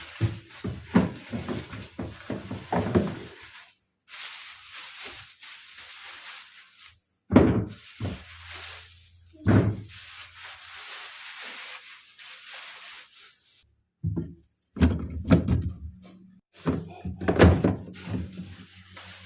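A series of household thuds and knocks, with a low steady hum under them in places; the sound cuts out suddenly several times.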